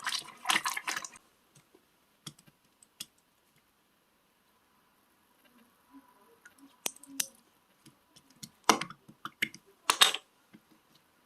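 Slime being pressed and squeezed by hand, giving off crackling clicks and pops. There is a dense run of clicks at the start, scattered single clicks after it, and two louder bursts of crackling near the end.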